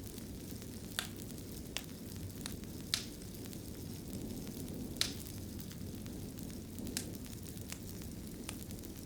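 Wood fire in a fireplace burning with a steady low rush, crackling and popping at irregular intervals, with a few sharper pops about a second, three seconds and five seconds in.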